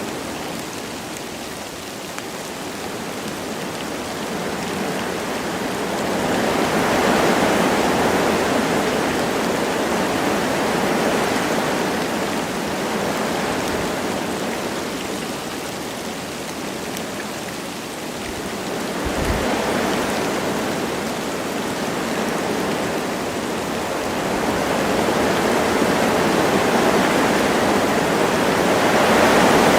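Wind blowing through forest trees with light rain falling, a steady rushing that swells and eases in slow gusts every several seconds.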